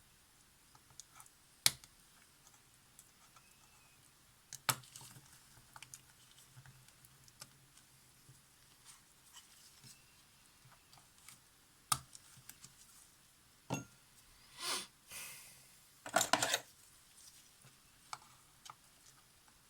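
Small hand tools clicking and tapping against camera parts, with two short scraping bursts near the end, as old silicone is worked off the Polaroid SX-70's plastic mirror mounts.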